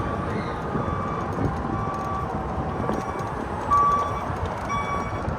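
Battery-powered golf cart riding along, with steady wind and tyre noise, and several short high beeps at uneven spacing, the loudest a little past the middle.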